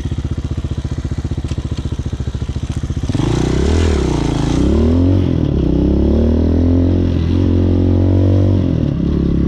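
Hawk 250 dirt bike's single-cylinder four-stroke engine running at low, even revs, then about three seconds in it opens up and pulls away. Its pitch climbs and drops several times as it shifts up through the gears.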